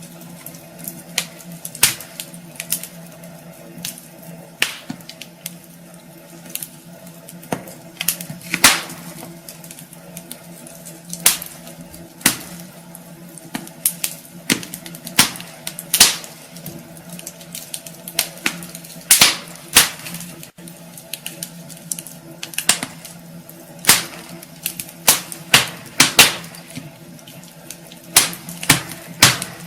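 Wood fire crackling in a fireplace: irregular sharp pops and snaps, some much louder than others, over a steady faint hum.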